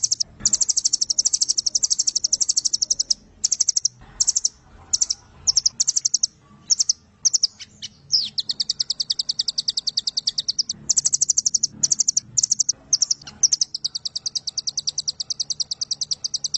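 Nuthatch (rambatan) singing long, very rapid trills of sharp, high notes, the 'nembak panjang' song prized by bird keepers. Three long runs are broken by short bursts of a few notes each.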